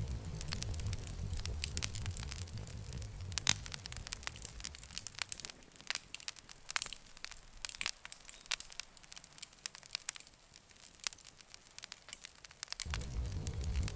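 Campfire burning, wood crackling with many irregular sharp pops. A low rumble underneath fades out about five seconds in and comes back suddenly near the end.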